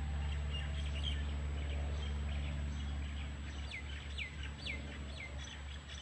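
Birds chirping, with a run of four quick falling calls about four to five seconds in, over a low steady rumble that fades about halfway through.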